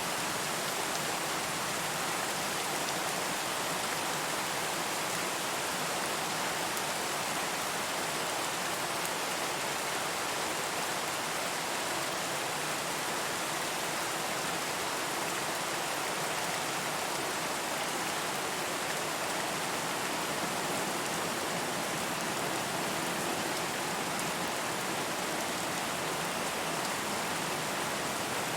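Steady rain falling, a continuous even hiss of drops with no thunder or gusts.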